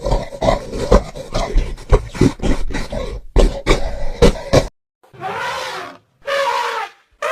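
A big cat roaring in a rapid series of deep grunting roars that stops abruptly, followed after a short gap by three separate drawn-out animal calls, each about a second long.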